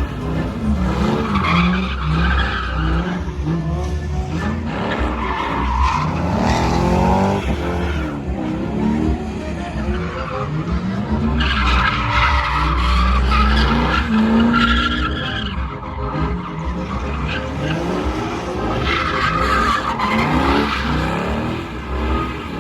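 A vehicle doing a burnout: its engine revs up and down again and again while the spinning tires squeal, the squeal loudest in two long stretches, in the middle and near the end.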